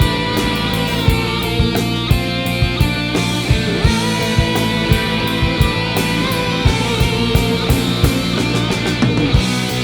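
Rock music: sustained guitar and bass tones over a steady drum beat of about two hits a second.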